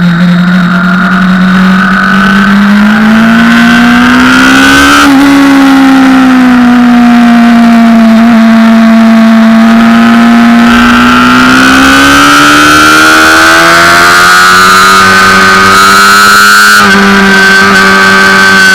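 Honda CBR600RR's inline-four engine heard onboard at speed on a race track: its pitch climbs, breaks briefly about five seconds in, sinks as the revs fall, then climbs steadily again to another break near the end. The sound is loud throughout.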